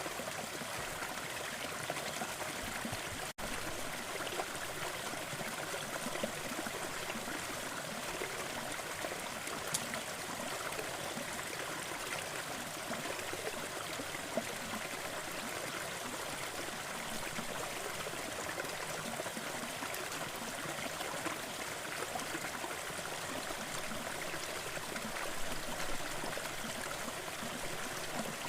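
Gentle forest waterfall running steadily, its water splashing and trickling in an even rush. The sound briefly drops out for an instant about three seconds in.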